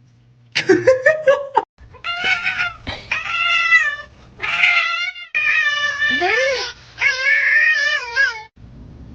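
A cat yowling: a few short cries, then about five long, drawn-out wails in a row, wavering in pitch.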